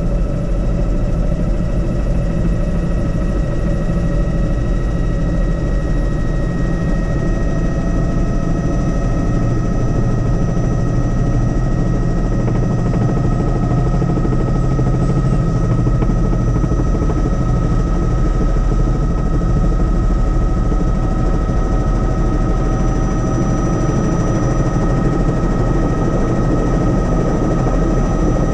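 Helicopter running steadily in flight: a constant deep rotor and engine drone with a steady high tone above it.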